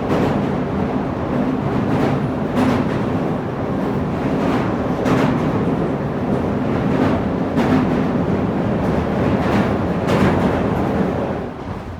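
Interior running sound of a Tobu 9050 series electric train, heard from above its Toyo GTO-VVVF inverter: a steady rumble with a low hum, and the wheels clicking in pairs over rail joints every couple of seconds. The sound drops off near the end.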